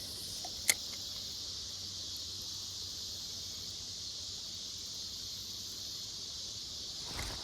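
Steady, high-pitched chorus of insects buzzing without a break, with a single sharp click just under a second in.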